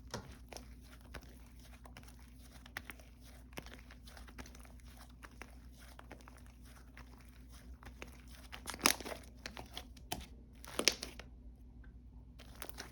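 Slime being squished and stretched by hand, giving a run of small crackling, popping clicks, with two louder crunchy bursts about nine and eleven seconds in.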